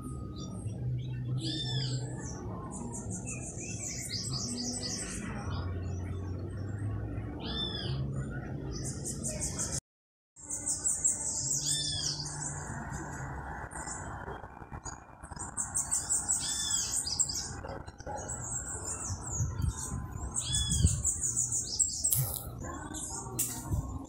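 Birds chirping: repeated high, fast trills about a second long, with a sharp arched call note every few seconds. A few sharp taps near the end.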